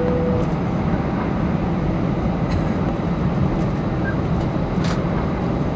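Cabin noise of an Airbus A320 taxiing: a steady rumble from the idling engines and the rolling undercarriage. A held tone ends about half a second in, and there is a short click near the end.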